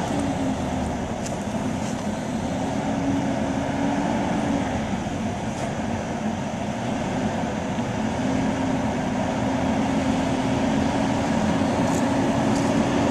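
A vehicle running steadily: engine drone with a wavering hum, over road noise.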